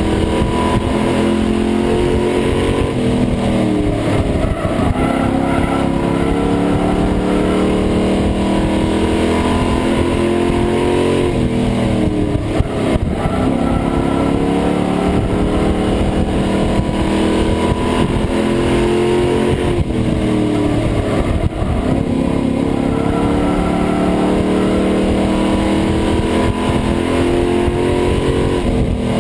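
A racing pickup truck's engine, heard from inside the cab, revs up and eases off in a repeating cycle as it laps. The pitch falls and climbs again roughly every eight or nine seconds.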